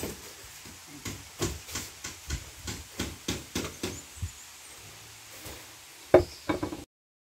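Repeated strikes on wood, about three a second for a few seconds, then a louder knock and a few quick ones before the sound cuts off suddenly.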